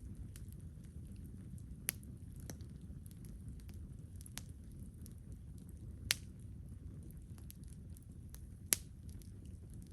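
Wood campfire burning with a low steady rush and scattered small crackles, broken by three sharp, louder pops about 2, 6 and 9 seconds in.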